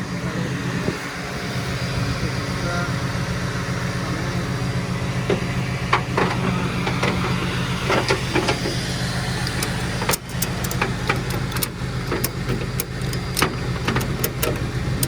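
Flatbed rollback tow truck's engine running steadily, with a string of sharp clicks and knocks in the last five seconds.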